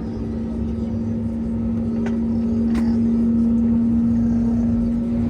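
Cabin noise of an Airbus A321neo on the ground with its engines running: a steady hum over a low rumble, with two faint clicks about two and three seconds in.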